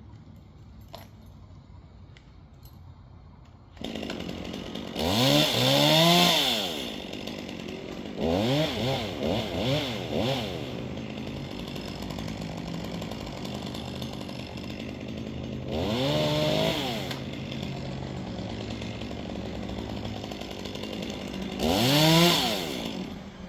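Chainsaw engine coming in about four seconds in, then idling, with its throttle blipped in short revs several times.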